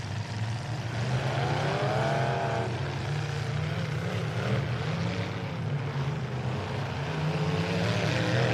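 Demolition derby truck engines running steadily under a noisy hum, with one engine revving up and back down about two seconds in.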